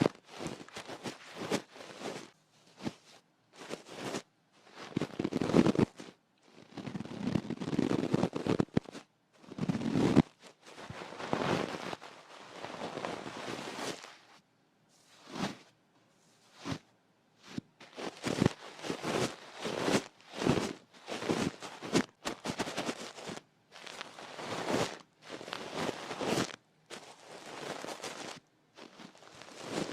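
Ear-cleaning ASMR: tools scratching and rubbing right against a microphone, in irregular crackly strokes of varying length with short pauses between them.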